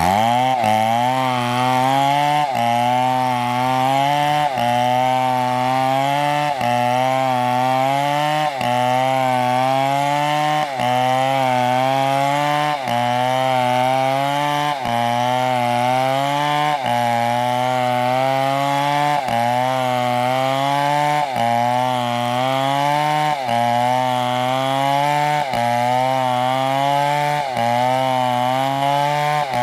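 MS720 two-stroke chainsaw revving up and cutting into wood at full throttle. Its pitch sags and recovers in a regular cycle about every two seconds as the chain bites.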